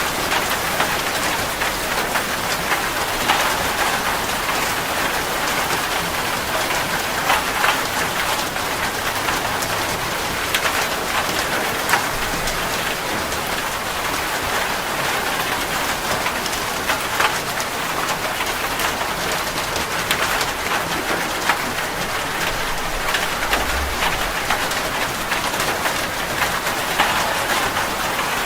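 Steady rain falling, with individual drops landing close by as sharp ticks now and then.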